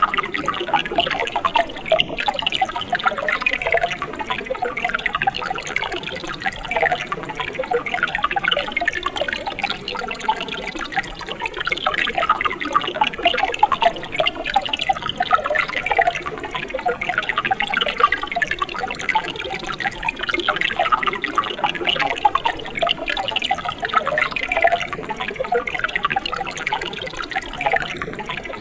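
Mountain stream water flowing and bubbling steadily over rocks, a continuous babble of small splashes and gurgles.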